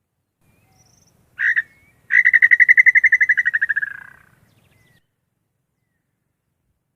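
Male inambu (tinamou) call: a short double note, then a fast whistled trill of about ten pulses a second that slowly falls in pitch and fades out after about two seconds.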